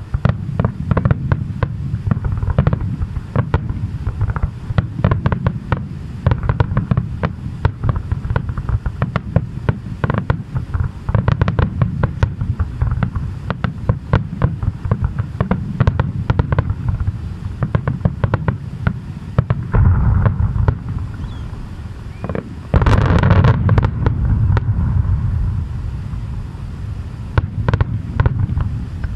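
Fireworks display: a dense barrage of aerial shell bursts, many rapid overlapping bangs and crackles over a deep rumble. The barrage eases briefly about two-thirds through, then comes back suddenly louder.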